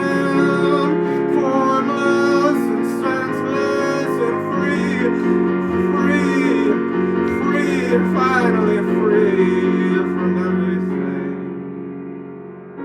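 A singer holding long, wavering notes without clear words over piano chords; after about ten seconds the voice stops and the piano rings on, fading toward the end.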